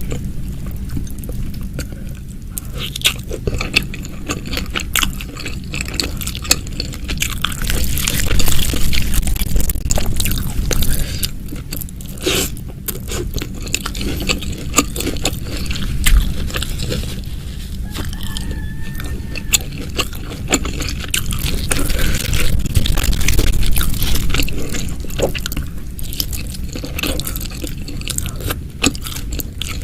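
Close-miked eating: irregular crunching, biting and chewing of crispy fried chicken, with wet mouth sounds in between.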